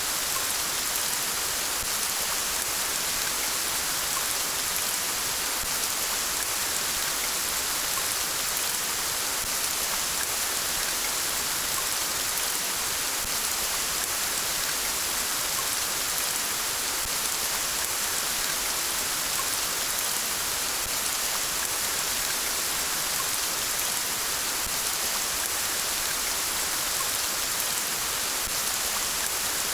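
Steady rain falling, an even hiss strongest in the high frequencies, with no breaks or single loud drops.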